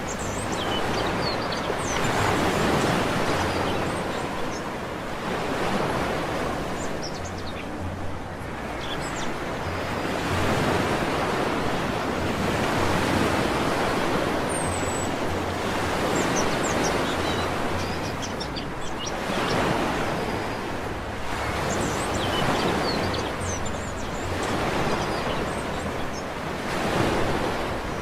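Sea surf washing onto a beach in slow swells every few seconds, with birds chirping faintly and sporadically over it.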